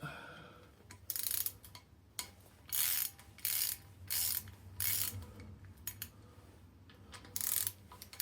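Socket ratchet clicking in several short bursts as it spins out 1/2-inch bolts from the engine's flywheel face plate. The bolts are barely tight, almost finger tight, so they turn out easily.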